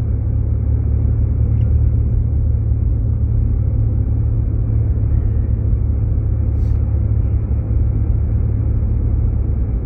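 Jeep Grand Cherokee driving, heard from inside the cabin: a steady low rumble of engine and tyre noise on a snow-covered road.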